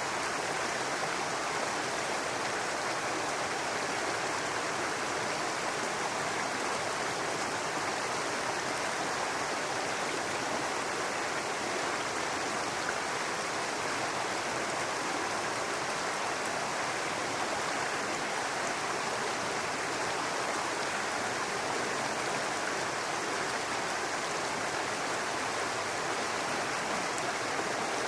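Small brook running over rocks: steady babbling, splashing water.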